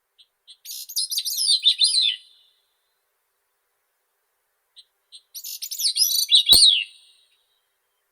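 Grey-cheeked thrush singing two song phrases about four seconds apart. Each begins with a few short soft notes, then runs into a high, thin jumble of descending, slurred notes. A brief click falls near the end of the second phrase.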